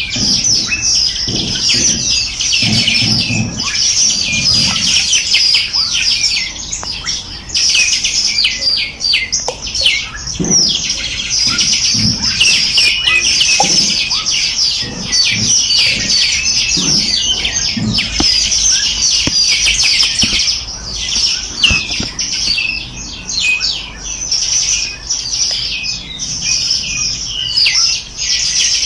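Many small songbirds chirping and trilling together in a dense, continuous chorus of high, rapid notes.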